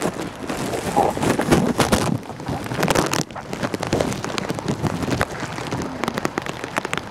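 Rain pattering in dense irregular taps, with wind gusting against the microphone.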